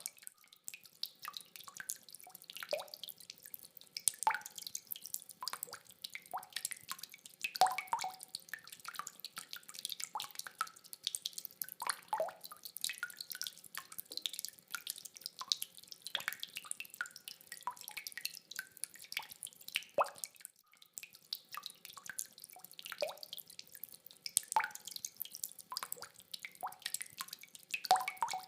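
Rainwater dripping: many separate drops falling at an irregular pace of several a second, some giving a short pitched plop. No thunder.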